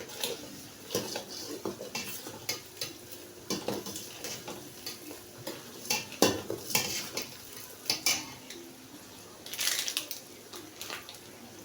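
Rice being stirred in a pot of hot oil: a spoon knocks and scrapes against the pot in irregular clinks, over a light sizzle of frying.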